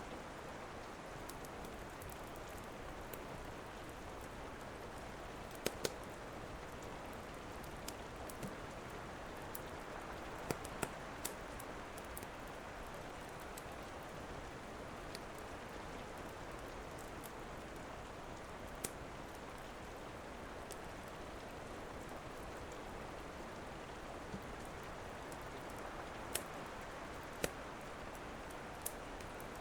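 Steady rain with a crackling wood fire: the rain's even hiss runs throughout, and a dozen or so sharp pops from the fire stand out at irregular intervals.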